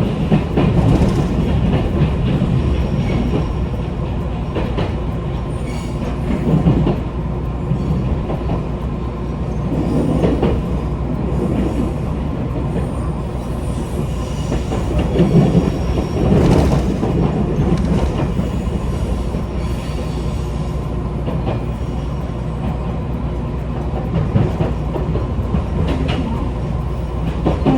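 Train running on the rails, a steady rumble with wheels clattering and a few louder swells of rail noise.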